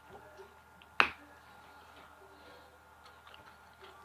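Mouth and eating sounds from someone eating crunchy fried chicken: faint scattered ticks, and one sharp click about a second in.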